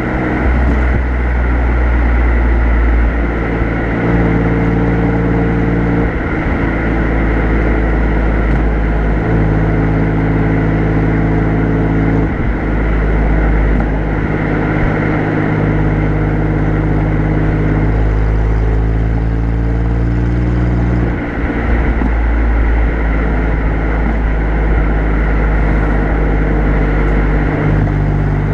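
Alfa Romeo Giulia Quadrifoglio's twin-turbo V6 exhaust at the rear bumper, cruising at low revs at an easy pace. The engine note holds fairly steady, stepping slightly up or down in pitch every few seconds, over tyre and wind noise.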